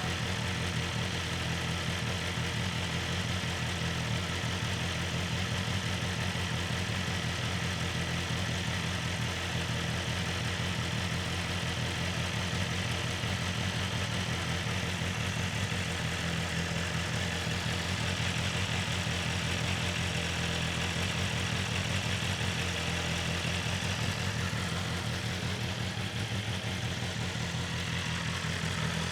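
BMW S1000RR inline-four idling steadily through its stock Akrapovic exhaust, with no revs or pops.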